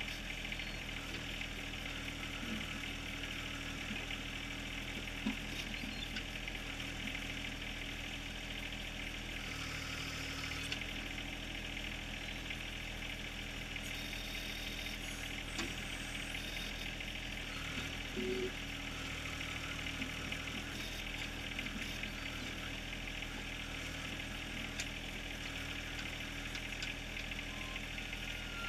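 John Deere 1023R compact tractor's small three-cylinder diesel running steadily while it works the backhoe, its note shifting a little now and then, with a few light knocks scattered through.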